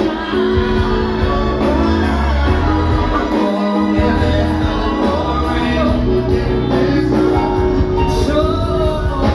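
A live band playing a song with a woman singing lead, over a steady bass.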